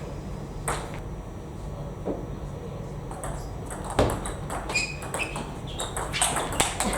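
Table tennis ball clicking off bats and the table: separate sharp hits, the loudest about four seconds in, coming quicker near the end.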